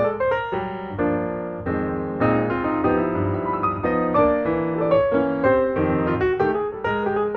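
Piano music: a run of struck notes at changing pitches over sustained lower notes.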